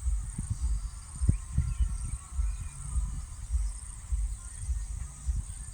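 Wind buffeting the microphone in irregular low rumbles, over a steady high-pitched chirring of insects.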